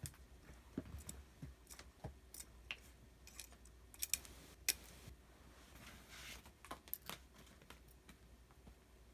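Scattered light clicks, taps and brief rustles, irregular and quiet, as a cat plays with a toy.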